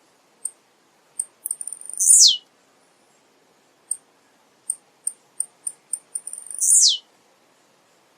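Male blue-black grassquit (tiziu) singing: a few short, very high chips that come faster and faster, then a loud buzzy note sweeping steeply down in pitch. The phrase comes twice.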